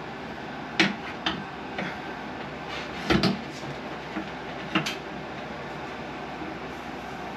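Sharp clicks and knocks of parts being handled and fitted during the installation of a bathroom exhaust fan, about six in the first five seconds with a double knock near the middle, over a steady background hiss.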